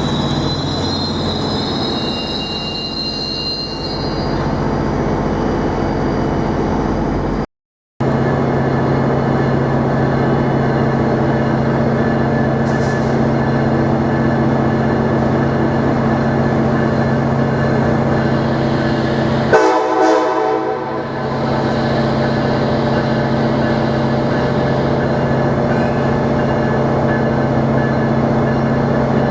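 Train wheels squeal on the rails for the first few seconds. After a cut, a standing train runs with a steady, even hum, and there is a short horn blast about twenty seconds in.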